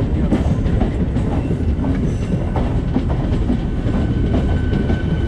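Coaches of an electric multiple-unit passenger train rolling past at close range: a steady low rumble with wheels clattering over the rail joints. A steady high-pitched tone sets in about four seconds in.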